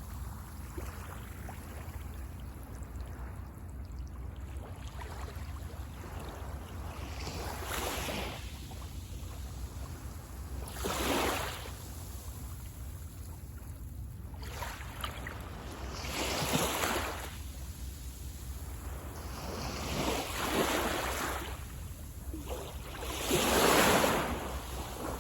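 Small waves breaking on a sandy beach, about five rushes of surf swelling and fading a few seconds apart, the last one the loudest, over a steady low rumble.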